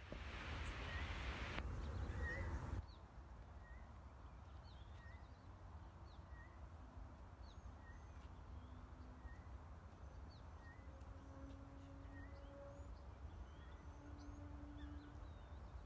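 Birds calling: one bird repeats a short chirp about every second and a half, with scattered higher chirps from other birds. A louder rush of noise fills the first three seconds and cuts off suddenly.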